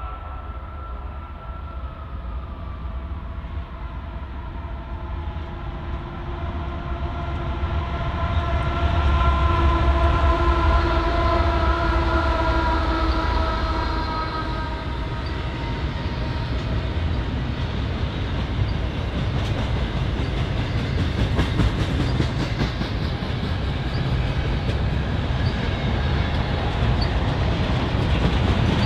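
Diesel freight locomotive horn sounding a chord of several notes for about fifteen seconds, loudest near the middle, then the train rolling past with a steady rumble and wheels clicking over the rail joints.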